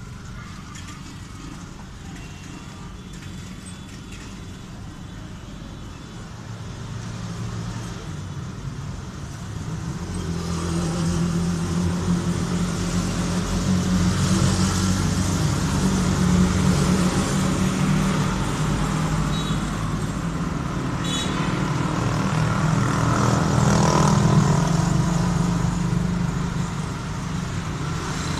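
A motor engine running steadily, growing louder about a third of the way in and staying loud.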